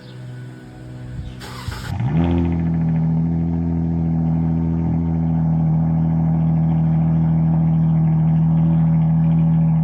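Dodge Charger SXT's 3.6-litre V6 with an aftermarket Big Boz exhaust cold-starting: a short burst of cranking about one and a half seconds in, then the engine catches about two seconds in, flares briefly and settles into a steady, loud idle.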